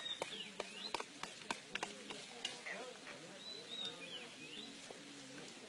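Irregular sharp clicks and cracks, with a short chirping bird call heard twice, once at the start and again in the second half.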